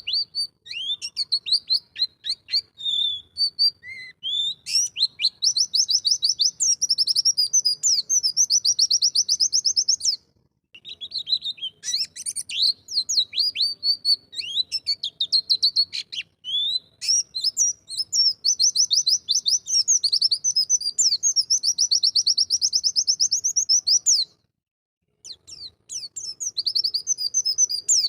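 White-eye (pleci) singing: long, very rapid trills of high notes, run together with quick twittering phrases. The song breaks off briefly about ten seconds in and again near twenty-five seconds.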